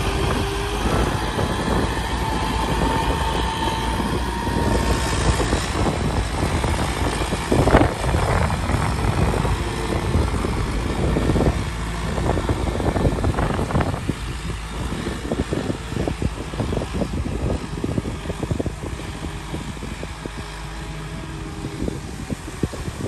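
Tractor engine running steadily, with a single sharp knock about eight seconds in; it gets a little quieter in the second half.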